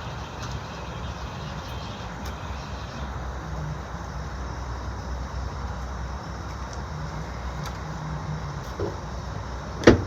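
Steady low rumble, with one sharp knock near the end.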